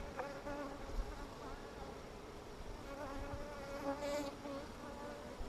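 Honeybees buzzing around an open hive frame: a steady hum whose pitch wavers as individual bees fly close, growing stronger about halfway through.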